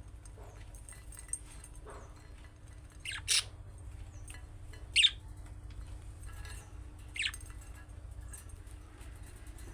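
Budgerigar giving short, sharp chirping calls: three loud ones about three, five and seven seconds in, the middle one the loudest, with fainter chirps between, over a steady low hum.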